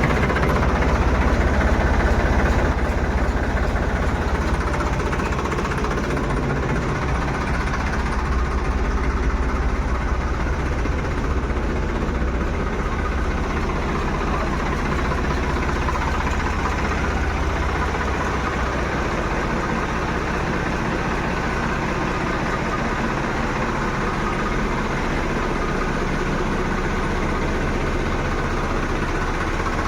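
Diesel tractor engine running at a steady idle with an even knocking pulse, a little louder for the first few seconds.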